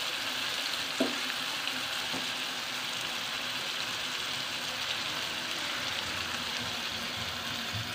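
Chopped onions, tomatoes and chillies frying in ghee in a frying pan on a gas flame, a steady sizzle, as a wooden spoon stirs them. A single light knock about a second in.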